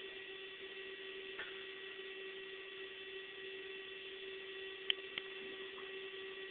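Steady electrical hum with a light hiss, and two faint clicks about five seconds in.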